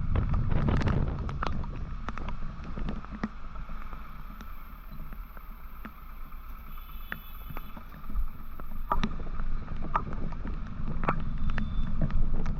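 Wind rushing over the microphone and a low rumble from a moving motorcycle, with scattered sharp ticks. The rumble dies down for a few seconds in the middle and picks up again about nine seconds in.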